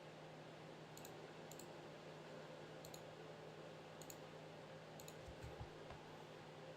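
Faint, scattered clicks, about one a second, at a computer: sparse keystrokes and mouse clicks, over a faint steady low hum.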